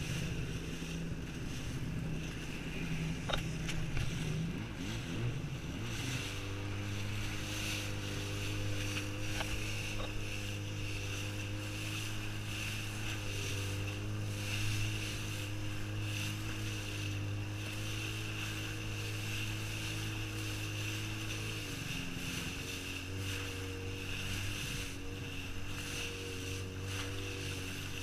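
Jet ski engine running under way over water noise. Its note wavers in the first few seconds, then holds steady, and drops a little in pitch about 22 seconds in as the throttle is eased.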